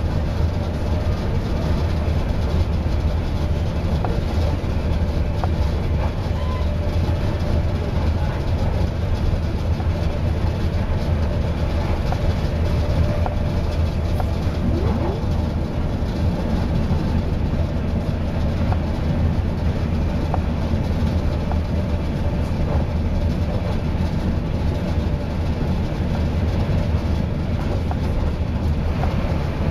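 Steady rumble and rush of a passenger train running at speed, heard from inside the carriage by the doors. The wheels and running gear make an even, low-heavy noise without distinct rail clicks.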